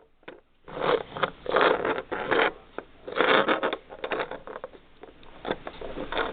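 Plastic Lego pieces being handled: several bursts of scraping and rustling, then scattered small clicks as parts are fitted.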